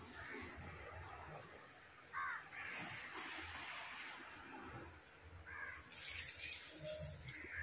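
Crows cawing a few times, faintly, with short stretches of hissing noise in between.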